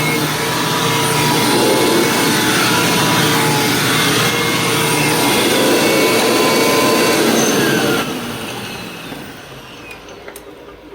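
Hoover WindTunnel Plus upright vacuum running steadily, then switched off about eight seconds in and spinning down over a few seconds with a falling whine. A little squeal as it winds down comes from the drive belt rubbing against the plastic belt guide, as the owner thinks.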